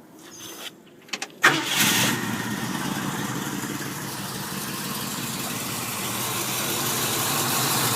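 1967 Ford 428 V8 starting: a couple of short clicks, then it catches about a second and a half in with a brief loud flare and settles into a steady, fairly smooth idle through custom long-tube headers.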